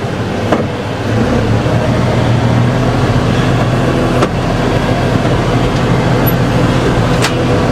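Tractor engine running steadily, getting a little louder about a second in, with a few sharp ticks.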